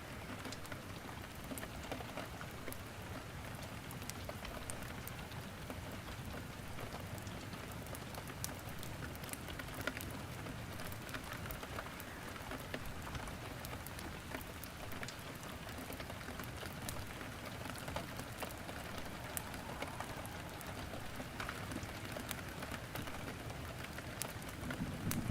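Steady rain falling, with sharp crackles and pops from wood burning in a fireplace scattered through it.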